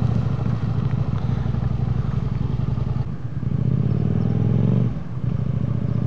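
Motorcycle engine running steadily, revved up with a rising pitch from about three and a half seconds in, then dropping back abruptly near the five-second mark.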